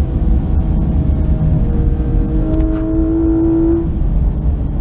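Porsche 911 GT3 RS's naturally aspirated flat-six, heard inside the cabin, pulling hard with its pitch climbing slowly through a gear. Its note breaks and drops about four seconds in, an upshift, over heavy road and wind rumble.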